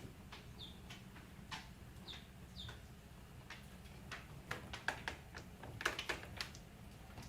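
A few short, faint bird chirps in the first three seconds, then a scattered run of light clicks and taps.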